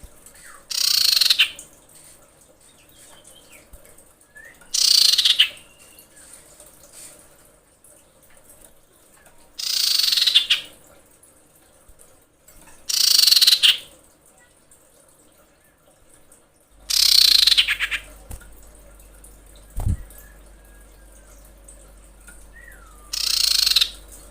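Female common iora in breeding condition calling for a male: six loud, raspy calls, each under a second and falling steeply in pitch, a few seconds apart, with faint short whistles between them. A single low knock sounds near the end.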